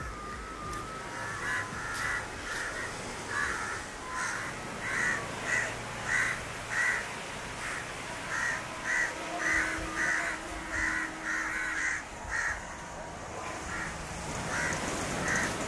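Birds calling: a long series of short, rough calls, one or two a second, over steady outdoor background noise.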